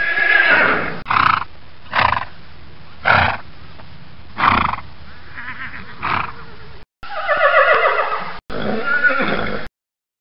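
Horses neighing: a long whinny falling in pitch at the start, then five short bursts about a second apart, then two more long whinnies in a row near the end, cut off suddenly.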